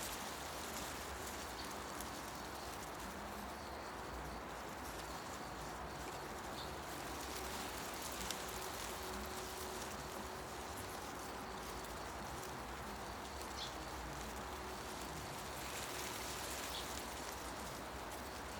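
Wind rustling through forest tree leaves in a steady, even hiss, with a few short, high bird chirps scattered through it.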